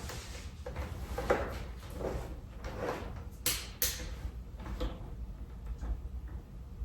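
Handling noise: light knocks, clicks and rustling as equipment is picked up and adjusted, with two sharper clicks about three and a half seconds in.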